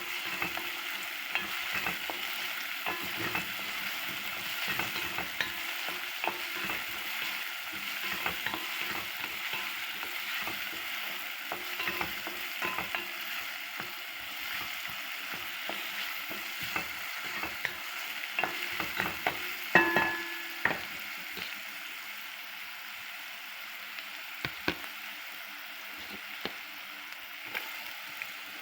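Food sizzling in a hot pan while it is stirred, with frequent small scrapes and clicks of the utensil against the pan. About twenty seconds in, the utensil knocks the pan with a ringing clang.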